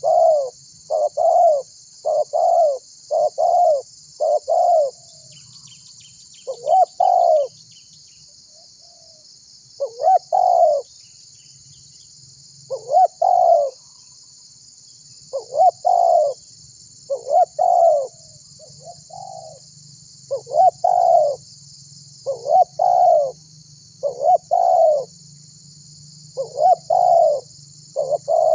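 Spotted dove (tekukur) cooing over and over: runs of short coo notes in quick succession, broken by pauses of a second or two, over a steady high buzz.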